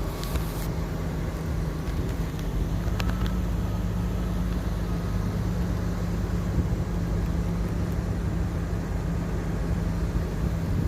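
Steady low hum of a motor vehicle running, with a constant low drone under a wash of noise.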